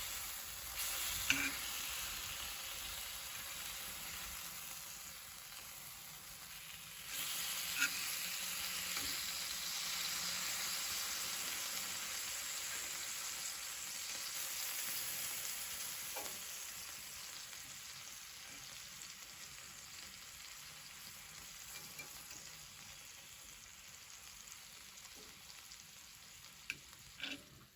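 Food sizzling in a frying pan, with a few sharp clicks. The sizzle gets louder about seven seconds in, then slowly fades.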